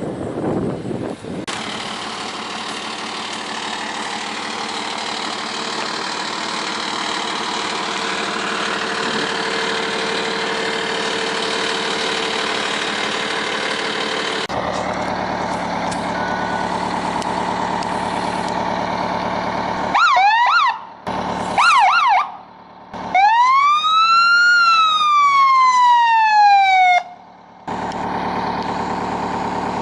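Fire truck siren sounded in short bursts over a running engine: a quick run of yelps, a second brief burst, then one long wail that rises and falls before cutting off suddenly. A steady rushing noise fills the first half.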